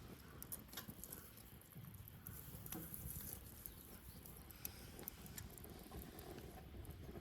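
Wood fire burning quietly: scattered small crackles and pops of burning wood over a low, soft rumble of flame, with a brief flurry of crackling about three seconds in.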